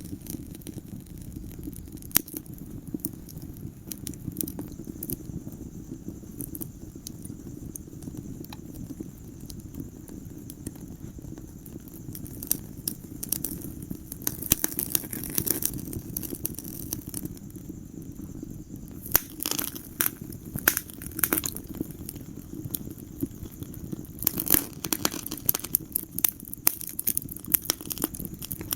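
Wood fire crackling in a fireplace: frequent sharp pops and snaps over a steady low rumble of the flames. The pops come thicker and louder in the second half.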